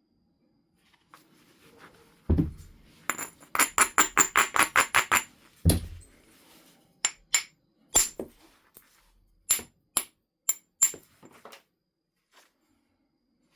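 Flint being knapped: a heavy knock, then a quick run of about ten light sharp taps at roughly five a second, another heavy knock, and a string of scattered clicks with a high glassy ring, stone and tool striking and clinking.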